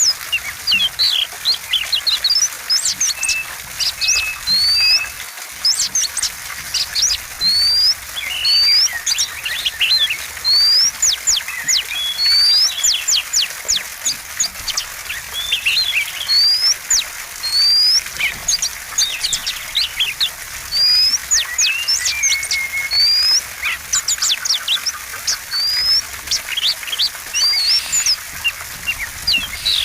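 Oriental magpie-robin (kacer) singing continuously: a fast, varied song of short upslurred whistles and quick sweeping chips, delivered in close, almost unbroken phrases.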